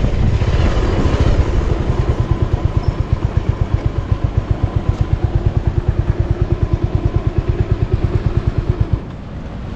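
Motorcycle engine, loud with riding noise at first, then idling with an even pulsing exhaust beat of about eight beats a second. The beat stops about nine seconds in as the engine is switched off, leaving a steady hiss.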